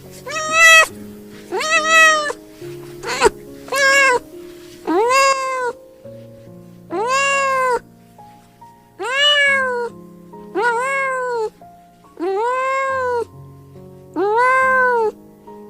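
Domestic cat meowing over and over, about ten meows, each rising then falling in pitch. Background music with held notes plays beneath.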